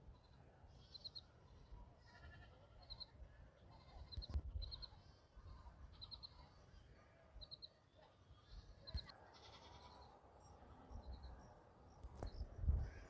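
Faint bleating from a herd of goats and sheep, with short high chirps in twos and threes repeating about once a second over a low rumble.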